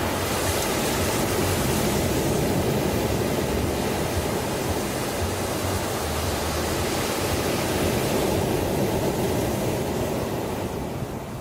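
Ocean surf: a steady rush of breaking waves that eases off near the end as the wash recedes.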